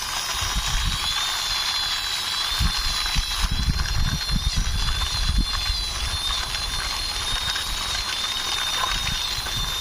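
Toy army jeep pushed by hand along a wall, its wheels giving irregular low rumbles and scrapes. A steady, slightly wavering high-pitched whine runs throughout.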